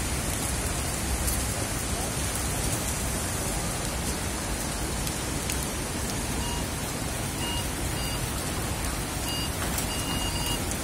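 Heavy rain falling steadily on a city street, an even, continuous hiss. A few short, high electronic beeps come through in the second half.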